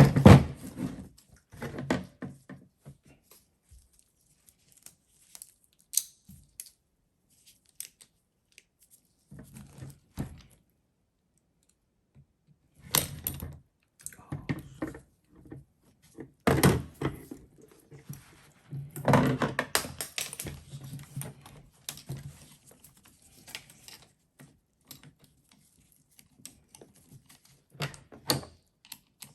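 Irregular clicks, clinks and knocks of metal starter parts and hand tools being handled during disassembly, with quiet gaps between and denser clusters of knocks about halfway through.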